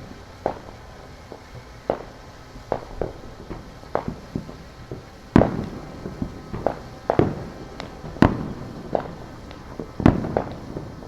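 Neighborhood consumer fireworks going off at a distance: irregular sharp bangs and cracks, a few every second, each with a short echo, the loudest bursts about five, eight and ten seconds in.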